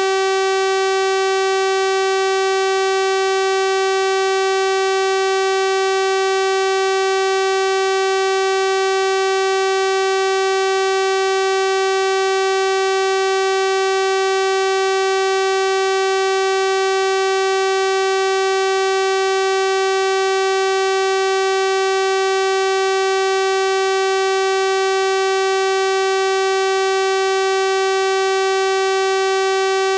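Synthesized 384 Hz sawtooth-wave test tone, held steady and unchanging, with a bright, buzzy stack of overtones.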